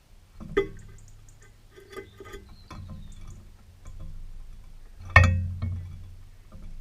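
A few sharp taps and knocks, irregularly spaced, the loudest about five seconds in, with faint high chirps in the first second or two.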